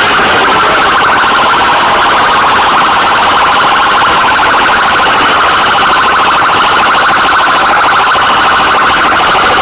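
Police cruiser's electronic siren sounding continuously, loud, in a fast, steady warble that stays at one pitch.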